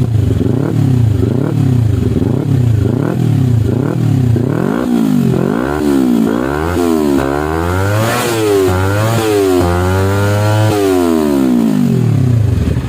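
Kawasaki Ninja 250 FI parallel-twin engine breathing through a Villan MV1 aftermarket exhaust, being revved in repeated throttle blips. The blips are short and quick at first, then climb higher and are held longer in the middle, before the revs fall back to idle near the end.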